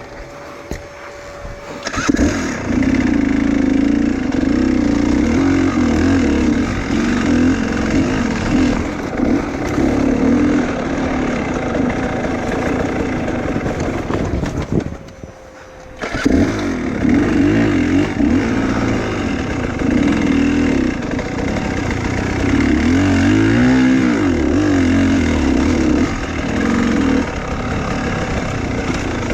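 Enduro motorcycle engine starting about two seconds in and running with revs rising and falling. About midway it dies out for a second or two, then starts again and runs on.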